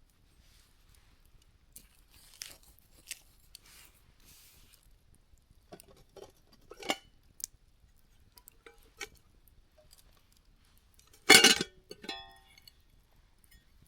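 Campfire of burning firewood and embers crackling with scattered pops and soft hissing, and one louder crackling burst about eleven seconds in that ends in a brief ringing.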